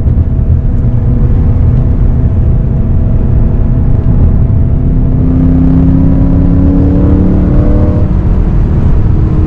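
BMW E92 M3's 4.0-litre V8 with an Akrapovič exhaust, heard from inside the cabin while driving: steady at first, then the revs climb slowly from about halfway through as the car gathers speed, over a low road rumble.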